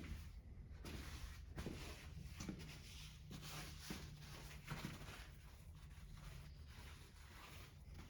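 Faint rustling and handling sounds with several light knocks, over a low steady hum.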